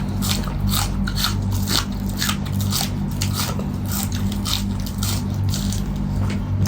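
Close-up eating sounds: mouth chewing food with repeated wet clicks and small crunches, a few a second, over a steady low electrical hum.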